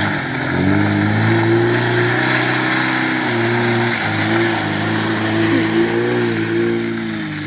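A four-wheel drive's engine working under load on a slippery clay climb, its note rising and falling as the revs change.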